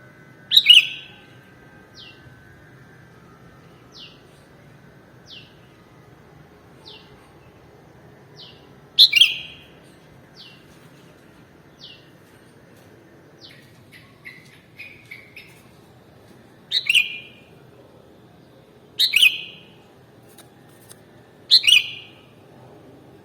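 Sooty-headed bulbul (kutilang) calling: five loud, short chirps that drop in pitch, several seconds apart, with fainter short falling notes about every second and a half between them.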